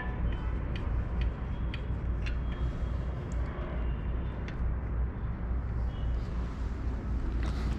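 Scattered light clicks of the inflator's hose chuck being handled and fitted onto a bicycle tyre valve, mostly in the first half, over a steady low background rumble.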